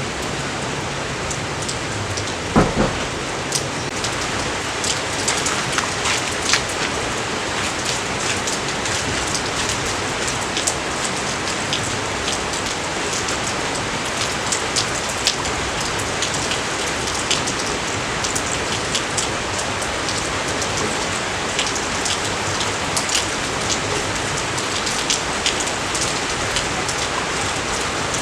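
Steady rain falling, with many close drops ticking sharply on a surface and one louder hit about two and a half seconds in.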